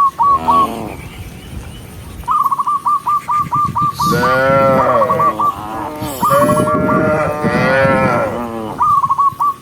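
Cattle mooing, several long drawn-out moos in turn. A quick string of short, high-pitched notes repeats several times in between.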